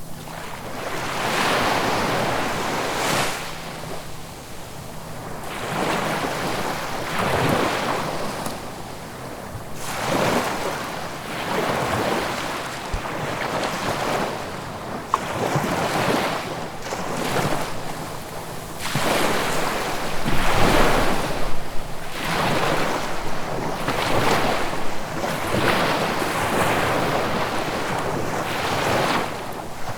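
Ocean waves breaking and washing up the shore, swelling and fading every few seconds, with the biggest surge about twenty seconds in.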